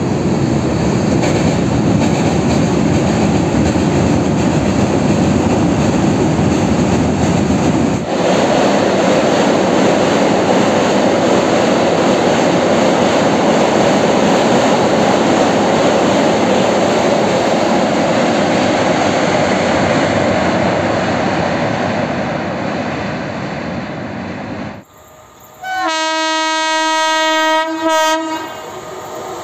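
A train running across a steel truss bridge: a continuous loud rumble and clatter of wheels. After a sudden break near the end, an Indian Railways electric locomotive sounds a horn blast of about two seconds.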